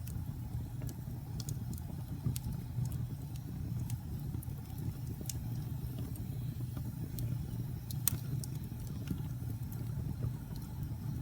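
Wood fire crackling in a fireplace: scattered sharp pops and snaps over a steady low rumble of the flames, with a louder snap about eight seconds in.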